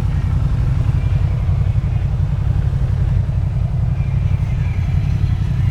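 A vehicle engine running steadily, a constant low rumble, with faint voices behind it.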